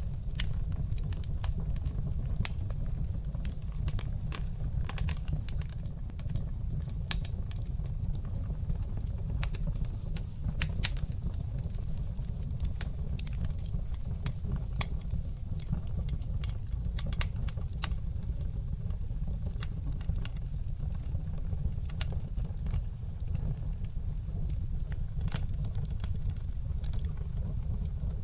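Fire in a fireplace crackling, with many sharp, irregular pops over a steady low rumble of the flames.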